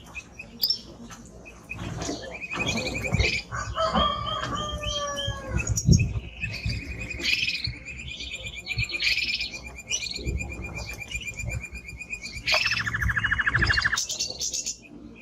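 Male canary singing a long, varied song of rapid trills and rolling phrases over a steady high trill, with a fast, lower rolling trill about twelve seconds in. A few low thumps sound under the song.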